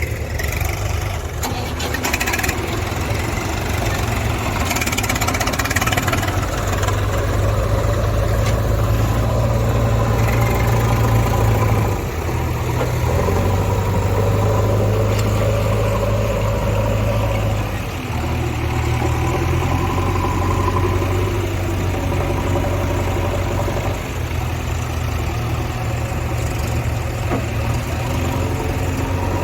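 Diesel engines of a JCB loader and a tractor running steadily while working, the engine note dipping and shifting briefly about twelve and eighteen seconds in.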